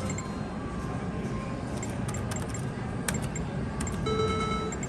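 Casino slot-floor din with a short electronic tone from a video poker machine near the end, and a single sharp click about three seconds in.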